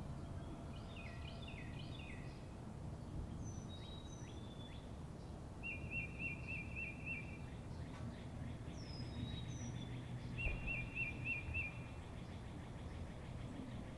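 Birds singing over a steady low background rumble. A short trill of five or six quick notes repeats every few seconds, mixed with high down-slurred whistles and chirps.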